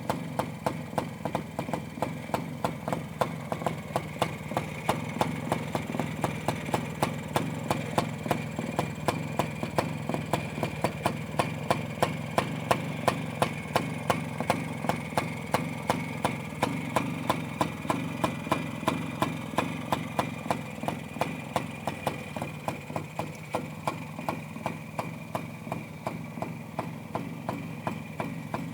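1958 Minsk M1M motorcycle's small single-cylinder two-stroke engine idling steadily, with a regular uneven beat of louder pulses about two to three times a second.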